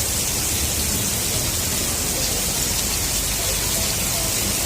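Heavy rain falling steadily as a dense, even hiss, with a low rumble underneath.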